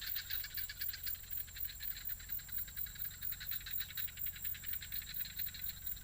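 A chorus of small calling animals: a rapid, even pulsing of about nine beats a second over a steady high whine.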